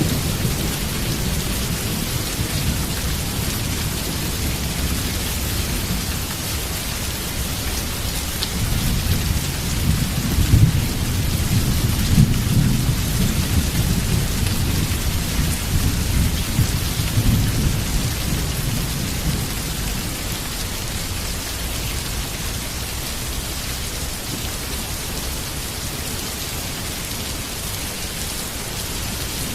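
Heavy rain pouring steadily, with thunder rumbling low underneath; the thunder swells a third of the way in, peaks twice, then fades over the last third.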